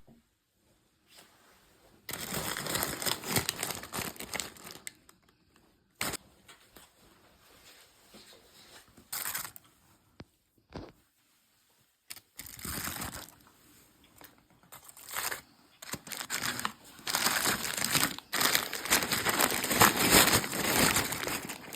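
Crinkling and rustling of takeaway food packaging being handled and opened, in irregular stretches with short pauses, busiest in the second half.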